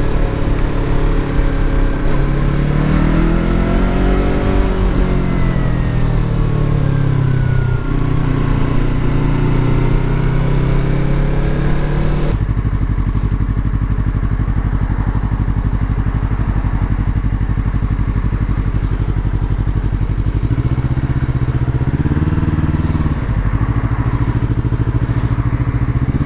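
Yamaha R3 parallel-twin engine running under way, its pitch rising and falling as the bike accelerates and shifts, with a second rise near the end. A steady hiss of wind rides over it and drops away suddenly about halfway through.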